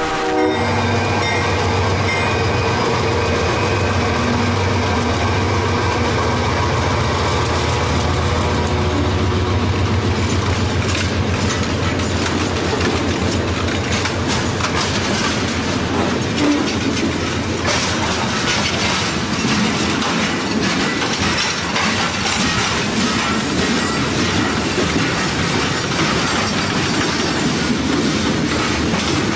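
Canadian Pacific diesel train passing close by. The horn cuts off right at the start, and the locomotives' engines drone for roughly the first ten seconds. After that the cars roll past with a steady clickety-clack of wheels over the rail joints.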